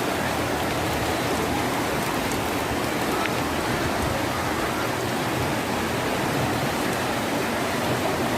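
Steady rush of flowing floodwater, an even noise with no breaks.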